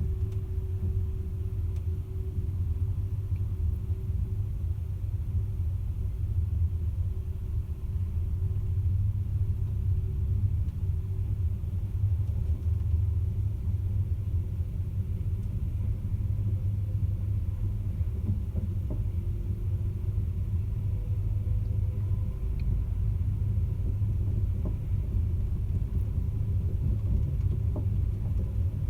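Caledonian Sleeper train giving a steady low rumble, with a faint steady hum above it.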